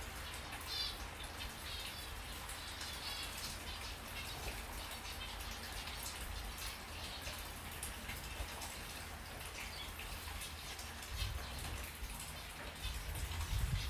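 Small birds chirping in short repeated bursts, most clearly in the first few seconds, over a steady hissing, pattering background like light rain or dripping water.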